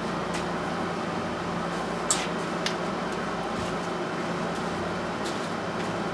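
Steady hum and hiss with a few short, sharp clicks or taps, the loudest about two seconds in.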